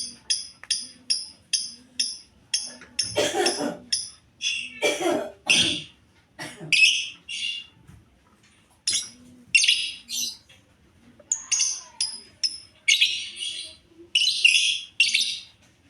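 Lovebirds calling: a rapid run of short, high chirps, about three a second, then louder, harsher chattering calls in clusters, with a few duller, noisier sounds in between about a third of the way in.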